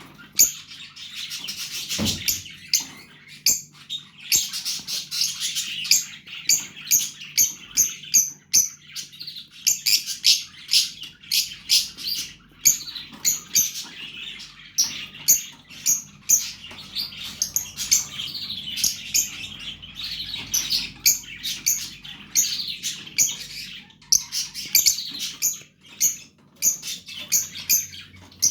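Fischer's lovebird chicks chirping continuously with rapid, sharp, high-pitched calls over a raspy hiss. A single low thump comes about two seconds in.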